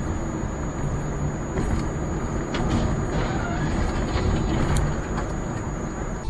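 Steady road and engine noise of a moving vehicle, with a faint steady high whine and a couple of light clicks.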